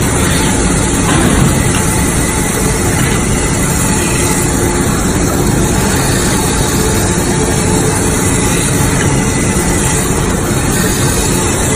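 Jumbo-roll toilet paper band-saw slitting machine running, a loud, steady mechanical noise without breaks.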